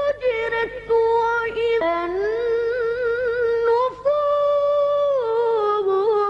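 A young boy's voice chanting Quranic recitation in melodic tajweed, opening a verse with short phrases and then holding one long wavering note that steps down in pitch about five seconds in.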